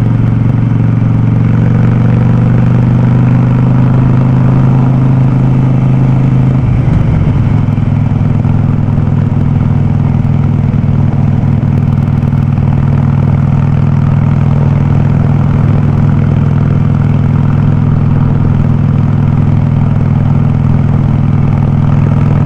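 Harley-Davidson Sportster 48's air-cooled V-twin running loud through a VnH aftermarket open exhaust, a steady deep note that shifts briefly about seven seconds in, then holds steady again.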